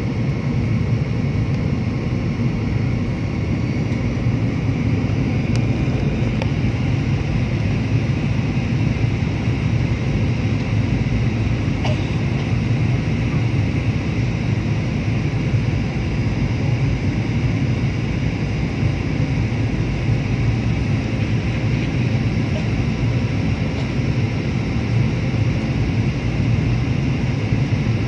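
Steady drone of an aircraft cabin in flight, engine and airflow noise holding at one level throughout.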